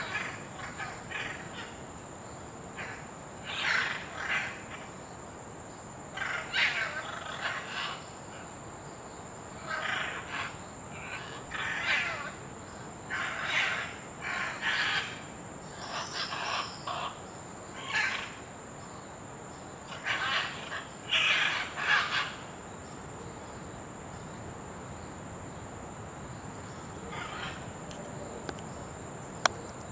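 Scarlet macaws giving harsh, raspy squawks, one every second or two, that thin out to a few faint calls for the last several seconds.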